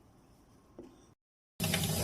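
Faint room tone with one small knock, a brief dead gap, then a loud steady rushing noise with a low hum starts abruptly about a second and a half in.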